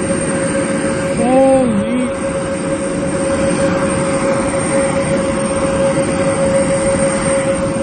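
Jet airliner engines running: a steady rushing noise with a constant whine on top.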